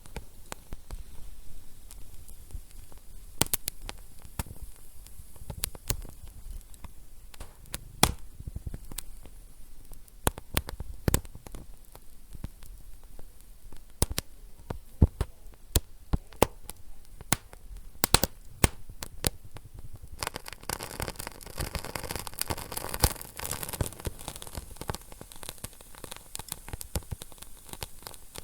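Wood fire crackling in a fireplace: sharp pops and snaps at irregular intervals over a low background noise. A steady hiss comes in about two-thirds of the way through.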